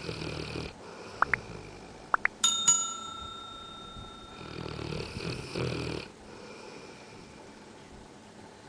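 A dog snoring in slow breaths, with two short rising squeaks about one and two seconds in and a bright metallic ding that rings on for about a second and a half.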